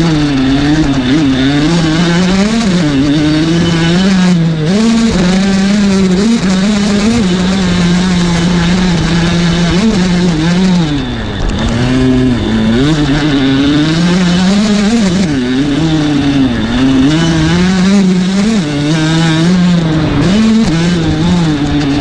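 Kawasaki KX85's 85cc two-stroke single-cylinder engine being ridden hard, its pitch climbing and falling again and again as the throttle is opened and closed. About halfway through it drops briefly, then picks up again.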